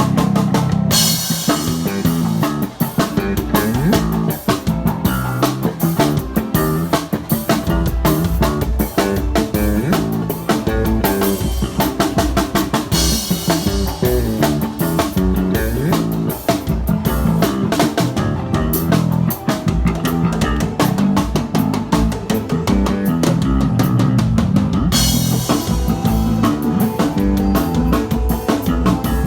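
A band playing with drum kit, bass and guitar, keeping a steady beat, with cymbal-like high wash coming in for a few stretches.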